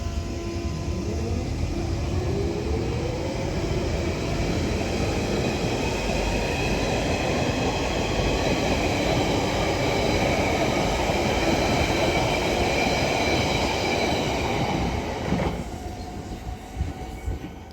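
London Underground 1992 stock train accelerating away from the platform, its traction motors giving a whine that climbs in pitch over wheel and rail noise. The sound drops off suddenly near the end as the train clears the station.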